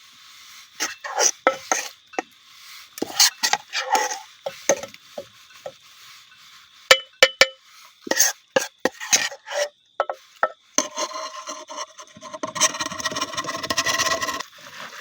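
A spoon scraping and stirring food in a cooking pot, in irregular short strokes with a few knocks against the pot. It turns into a steadier rasping stretch near the end.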